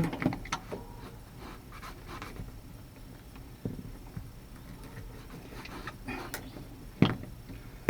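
Light scattered clicks and rustles of a hand working inside a pickup truck's door shell to free a door-handle clip, with a sharper click around the middle and a loud knock about seven seconds in.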